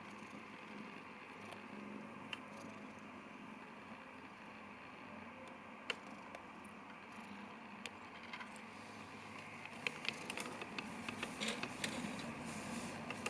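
Steady low background hiss with a few scattered small clicks, turning into a run of light clicks and rustles over the last few seconds.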